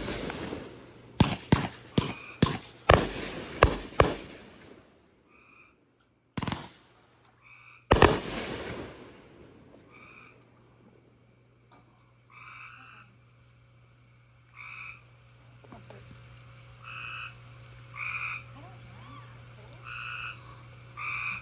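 A string of firework bangs, about ten sharp reports in the first eight seconds, some with a crackling tail. After that come short frog calls, repeating about once a second and growing more frequent towards the end.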